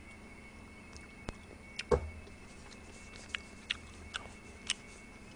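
Close-miked mouth sounds of chewing a mouthful of seafood noodles: a few short wet clicks and smacks, with one duller knock about two seconds in, over a faint steady hum.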